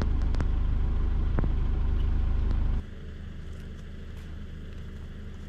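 Steady low road rumble inside a moving car's cabin, with a few sharp clicks. About three seconds in, it drops abruptly to a much quieter, steady low hum.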